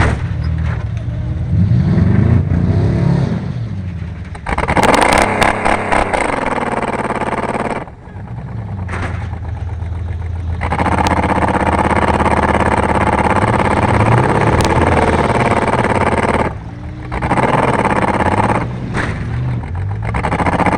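Junk race car engines running hard and revving, their pitch climbing and falling with each throttle change. The loudest stretches cut off abruptly about 8 seconds in and again about 16 seconds in.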